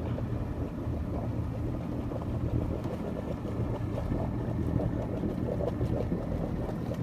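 A boat's engine running steadily under way, a low even hum mixed with the rush of water and wind.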